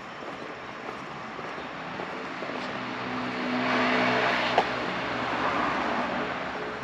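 A motor vehicle passes by on the street: its engine and tyre noise swell to a peak about four seconds in, then fade. A single sharp click sounds just after the peak.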